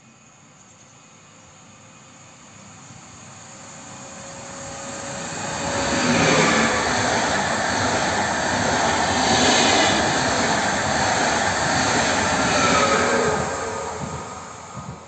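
Electric passenger train running through a station at speed: a wheel-on-rail rush that grows from faint to loud over about six seconds, stays loud for about seven seconds as the coaches go by, then fades. Faint whistling tones ride over the noise.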